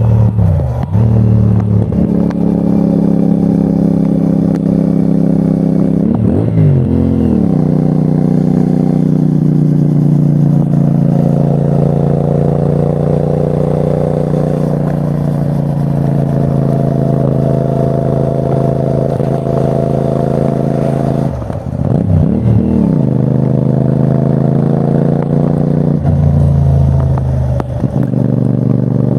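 CFMOTO 450NK's parallel-twin engine under way, running at steady revs for long stretches. Its pitch swings down and back up briefly at gear changes, about six seconds in and again around twenty-two seconds.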